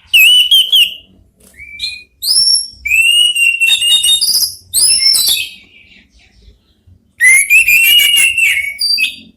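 Orange-headed thrushes singing and answering one another: loud whistled phrases mixed with rapid chattering trills, coming in bursts with short pauses between them.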